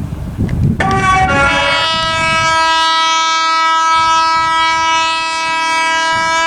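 Train horn sounding a long, loud blast of about six seconds: the notes shift during the first second, then it holds one steady note and cuts off near the end. Beneath it at first is the low rumble of the approaching train.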